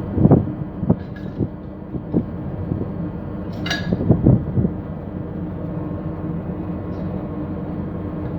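Steady low hum of ship's machinery, with a few knocks and metallic clatters, the densest cluster about halfway through.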